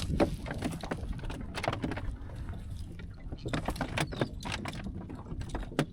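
Scattered knocks, clicks and light water splashing around a small fishing boat, over a low steady rumble.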